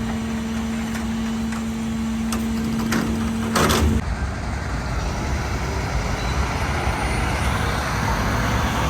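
Peterbilt 520 rear-loader garbage truck running, with a steady whine and a few knocks. About four seconds in, a short loud burst of noise comes, the whine cuts off, and engine and road noise carry on.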